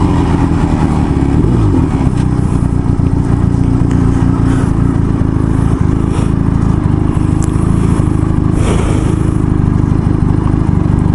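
Motorcycle engine running at a steady speed while being ridden, its pitch holding nearly even.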